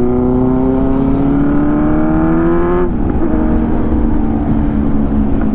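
Motorcycle engine pulling under acceleration, its note rising steadily for about three seconds, then dropping suddenly with an upshift and running on at a steady pitch, over low wind rumble on the rider's microphone.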